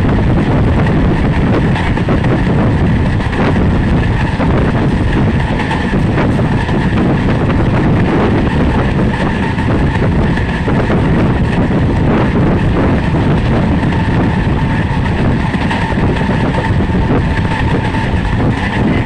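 Steady running noise of a passenger train at speed, heard from inside a coach at the window: a continuous low rumble of wheels on the rails mixed with rushing air.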